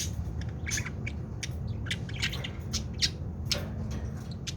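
Pet bird chirping: a quick run of short, sharp chirps and squawks, several a second, over a steady low hum.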